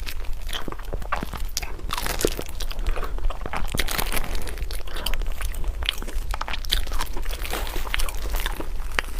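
Close-miked eating: a person biting and chewing, with many irregular crunching clicks, over a low steady hum.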